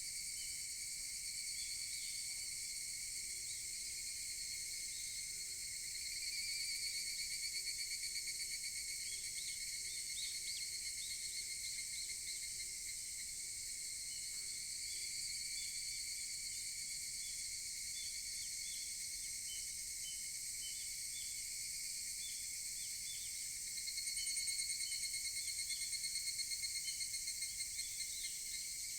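Chorus of higurashi evening cicadas, a steady high-pitched trilling, with a nearer cicada's rapidly pulsing call swelling up about six seconds in and again near the end.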